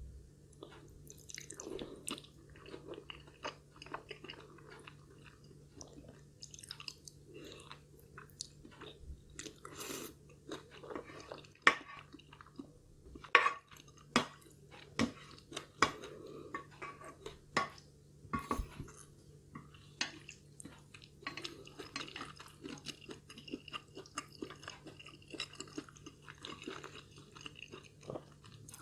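Close-miked chewing of food: a long, irregular run of wet mouth clicks and smacks, with a few sharper, louder crunchy bites about halfway through.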